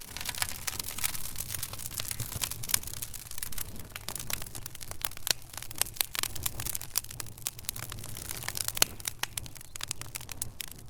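Wood fire burning in a fireplace, crackling and popping in dense, irregular snaps over a low, steady rumble.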